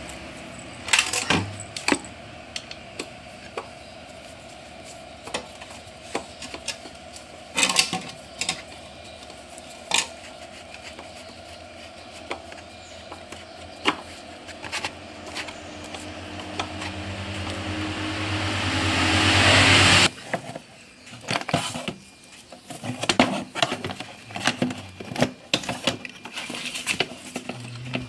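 Metal parts and tools clinking and knocking as parts are fitted to an electric bicycle, over a steady hum. A hissing noise swells louder over several seconds and cuts off suddenly about twenty seconds in.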